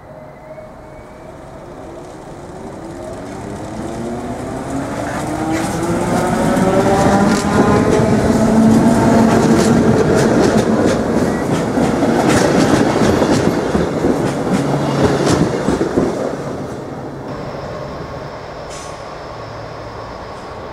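SBB RBDe 560 electric multiple unit approaching and running past along the platform: a motor whine gliding in pitch grows louder as it nears, with many clicks of wheels over rail joints while it passes. About seventeen seconds in, the sound drops to a quieter steady rumble.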